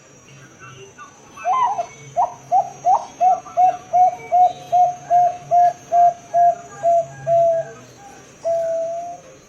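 Zebra dove (Bangkok-line perkutut) singing: a fast, even run of about sixteen short coos, roughly two and a half a second, followed after a short pause by one long drawn-out final note.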